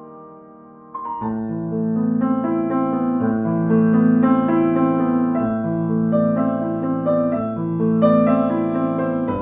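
Calm instrumental piano music. A soft passage fades out, and about a second in a fuller phrase begins, with held low notes under gently repeating chords.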